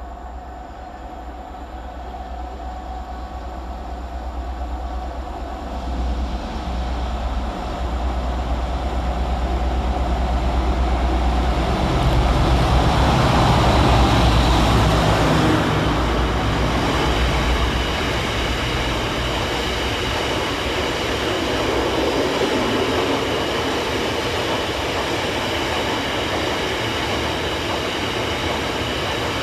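Class 60 diesel-electric locomotive approaching with a low engine rumble that grows steadily louder, loudest about 14 seconds in as it passes. A long rake of biomass hopper wagons follows, rolling by with a steady rumble of wheels on rail.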